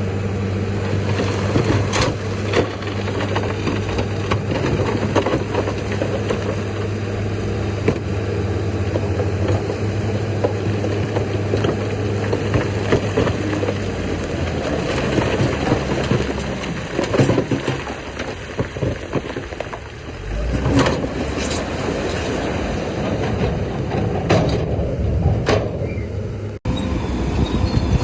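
Heavy diesel earthmoving machinery at work: a steady engine drone, joined from about halfway by irregular metallic clanking and scraping with sharp knocks, as of tracks and a blade working over rock and fill.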